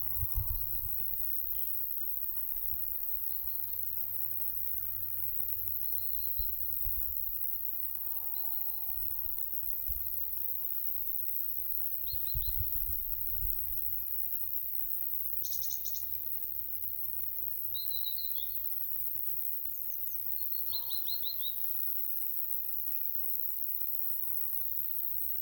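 Scattered short bird chirps and calls, including a couple of quick runs of falling notes, over a steady high-pitched insect buzz. Light wind rumbles on the microphone, with gusts at the start and around the middle.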